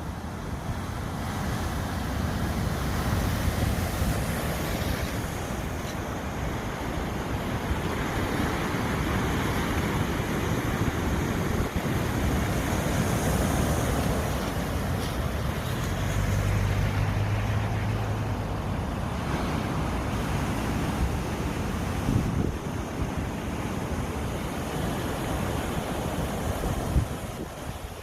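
Sea waves washing onto the shore, a steady noisy rush that swells and eases every few seconds, with wind buffeting the microphone.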